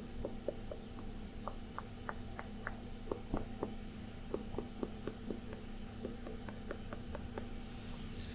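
Soft, irregular tapping and dabbing against the microphone, a few taps a second, as sweat is mimed being wiped off a face. Underneath, the steady hum and hiss of an air conditioner.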